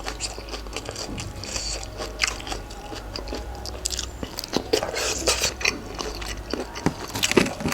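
A person chewing and crunching a mouthful of spicy papaya salad with cuttlefish and shrimp, many small irregular crunches.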